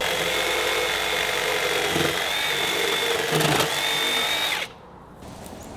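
Power tool running steadily with a high whine, then stopping about three-quarters of the way through.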